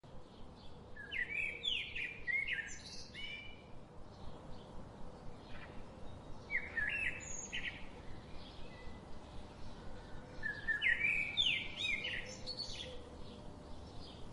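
Birdsong: a bird sings three bursts of quick whistled notes that slide up and down, several seconds apart, with softer chirps in between.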